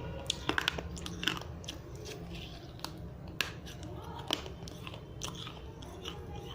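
Dry fired-clay diya being bitten and chewed: sharp, irregular crunches of brittle earthenware, several in quick succession in the first second and then more spaced out.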